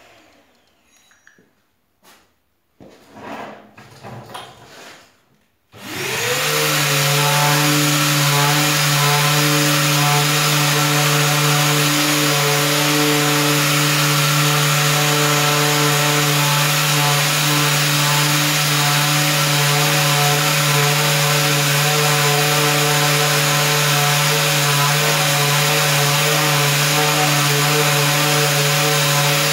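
After a few seconds of faint handling noises, a power sander starts about six seconds in, rising quickly in pitch, then runs steadily. It is sanding the plastic front bumper of a BMW E46 with 150-grit paper, taking the old finish back to bare material.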